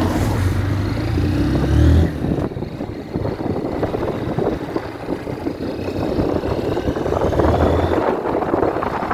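Motorcycle engine revving up and accelerating, loudest about two seconds in before the revs drop. A rushing noise follows as the bike rides on, and the engine tone rises again near the end.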